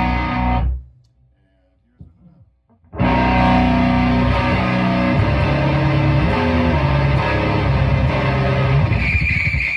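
Electric guitar played with the pedal bypassed, through a Barton High Voltage Custom 200 amp and an Ampeg V2 cabinet with Weber speakers. A held chord is cut off under a second in, and after about two seconds of near silence with faint string noise, the playing resumes with sustained chords about three seconds in.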